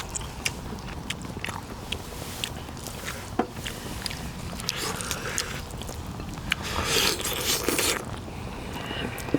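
Close-up eating sounds: chewing and biting meat off pork neck bones from gamjatang, with many small scattered clicks. A louder, noisier stretch comes about seven seconds in.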